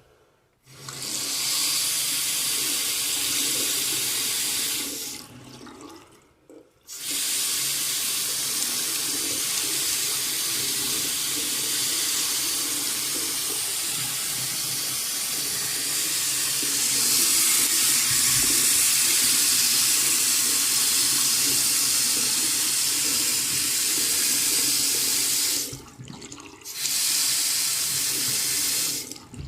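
Single-handle bathroom faucet running into the sink, turned on and off three times: a few seconds of flow, a long run that gets louder about halfway through, then a short run. The freshly repaired faucet is being tested for the leak at the base of its handle.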